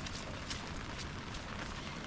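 Steady hiss of rain and an open wood cooking fire, with scattered small crackles and ticks.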